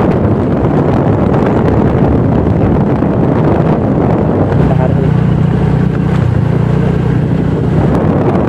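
Motorbike running along the road, its engine droning under heavy wind noise on the microphone; the engine tone holds steadier for a few seconds in the second half.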